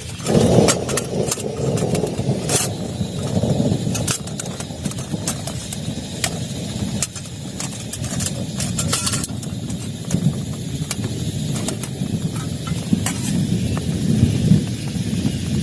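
Heavy rain on a plastic tarp, with scattered sharp drop impacts over a low rolling rumble of thunder that swells about half a second in.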